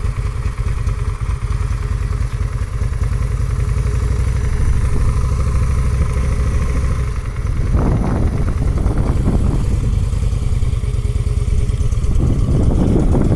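Motorcycle engine running at low speed, with two louder, rougher spells about eight and twelve seconds in.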